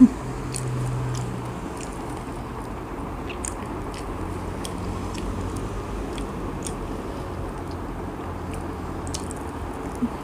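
Close-miked chewing of popia pisang (fried banana spring roll): soft mouth sounds with small, scattered crunchy clicks.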